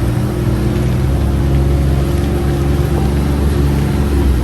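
UTV engine running at a steady speed while driving, a constant drone that neither rises nor falls.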